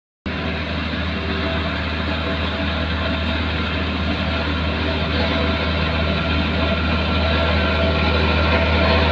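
Heavy diesel engine of road-construction machinery running steadily with a deep hum, slowly growing louder. It starts after a brief moment of silence.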